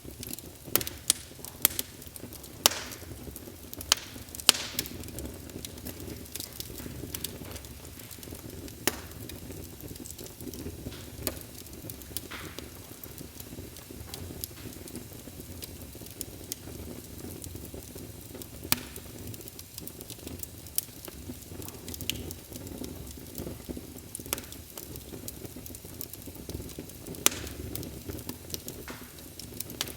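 Wood fire burning in a fireplace: a steady low rumble of flames with frequent sharp crackles and pops, thickest in the first few seconds.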